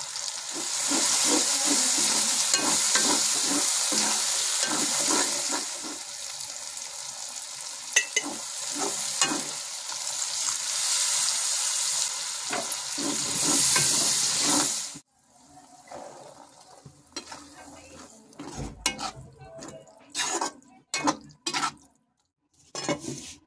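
Spiced tomato masala sizzling in a metal kadai while it is stirred and scraped in steady strokes. About fifteen seconds in, the sizzle stops abruptly, leaving scattered scrapes and knocks of a slotted metal spatula against the pan as green peas are stirred in.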